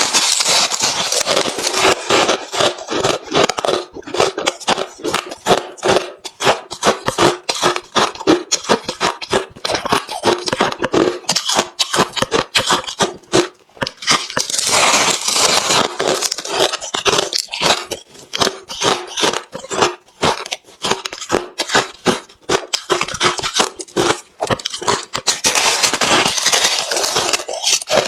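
Hard, refrozen crushed ice being chewed close to the microphone: a rapid, continuous run of sharp crunches and crackles. The crunching grows denser and louder near the start, about halfway through, and near the end.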